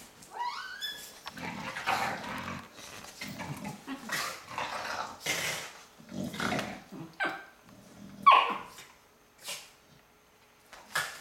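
Dogs growling and giving short barks while they tussle, in a string of brief bursts; the loudest, a sharp bark, comes about eight seconds in.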